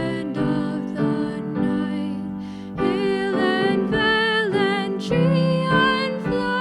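A hymn: a singing voice with vibrato over held instrumental chords, changing notes every half second or so.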